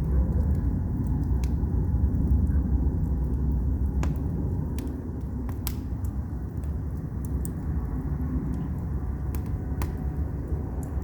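Wood fire burning in an agungi, a traditional Korean firebox: a steady low rumble of the fire with scattered sharp crackles and pops from the burning logs.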